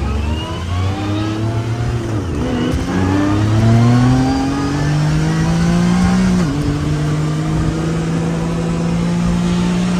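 Side-by-side UTV engine accelerating through the gears. Its pitch climbs, drops sharply at upshifts about two and six and a half seconds in, then holds nearly steady, with a constant rushing noise underneath.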